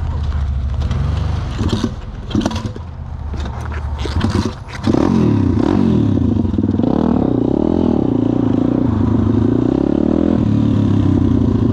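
Pit bike engine idling low with a few clattering knocks, then revved hard about five seconds in. The pitch rises and falls, then it holds steady at high revs.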